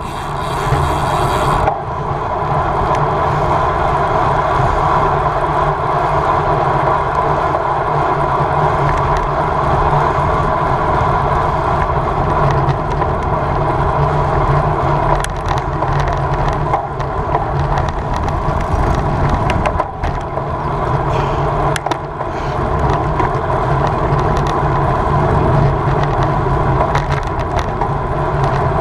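Steady wind and road noise from a road bicycle ridden at race speed, with wind buffeting the microphone. There is a brief brighter hiss in the first second or two.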